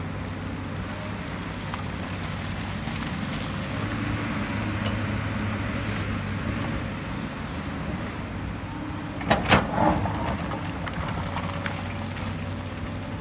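Hyundai excavator's diesel engine running steadily at working revs, with a gritty rushing noise of earth and stones on the move. A bit past halfway there is a short cluster of loud knocks and clatter from rock being struck or dropped.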